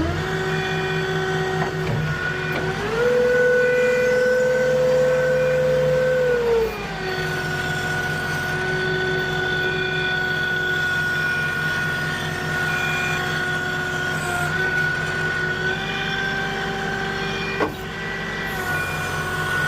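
Heavy vehicle's diesel engine running steadily. About three seconds in its pitch and loudness rise, hold for a few seconds, then drop back to a steady run.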